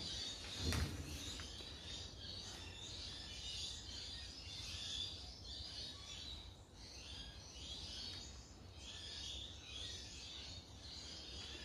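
Birds chirping faintly in the background, a run of short repeated calls, over a low steady hum, with one light knock about a second in.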